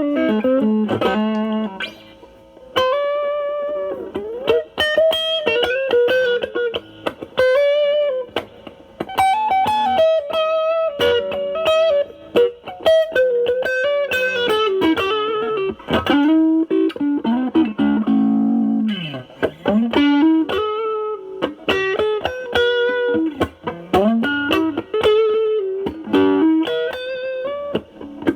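Semi-hollow electric guitar through a Nobels ODR-1 overdrive pedal into a Marshall Valvestate amp's clean channel, with the drive cleaned up. It plays improvised single-note blues lead lines with string bends, and one note slides well down in pitch about two-thirds of the way through.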